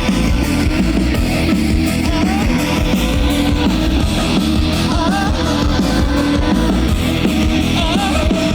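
Live rock band playing loud, steady, mostly instrumental music: drums, bass and electric guitar.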